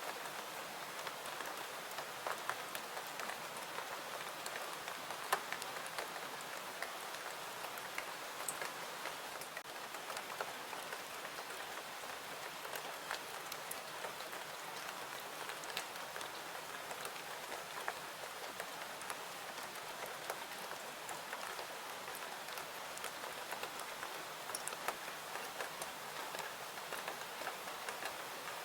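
Steady, even rain falling, dotted with scattered small clicks and ticks.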